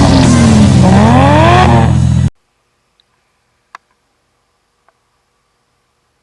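Engine revving hard, its pitch climbing and dropping about once a second, cut off abruptly a little over two seconds in. After that, near silence with a few faint clicks.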